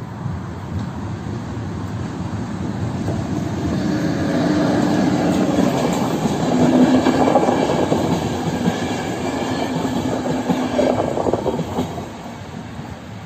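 Passenger train of České dráhy coaches running through a level crossing, its wheels on the rails getting louder over several seconds. A steady tone runs through the loudest part, and the sound drops off sharply about twelve seconds in as the last coach clears.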